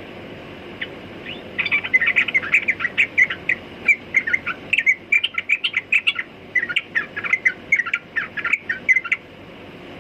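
Yellow-vented bulbul (trucukan) singing: a couple of lone notes, then a long, rapid run of bubbly chirping phrases that stops suddenly near the end.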